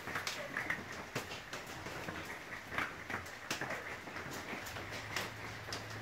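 Faint scattered short clicks and brief chirps from birds in an aviary.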